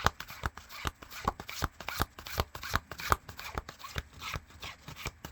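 A tarot deck being shuffled by hand: cards slipping and tapping against each other in quick, irregular clicks, several a second.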